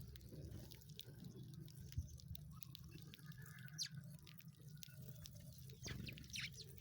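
Sparrows chirping faintly: scattered short, sharp notes, with two clearer downward-sweeping chirps about four and six and a half seconds in, over a low steady hum.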